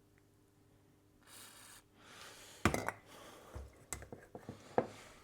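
Faint clicks and clinks with soft rubbing as small metal electrical contacts are cleaned by hand, the sharpest clicks about two and a half, four and five seconds in.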